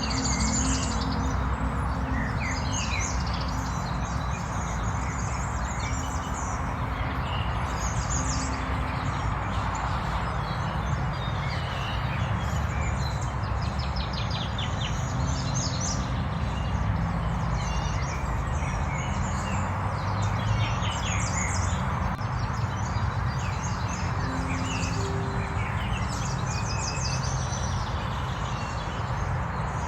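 Several small birds chirping and singing in woodland, with short calls and trills scattered throughout, over a steady background hiss of noise.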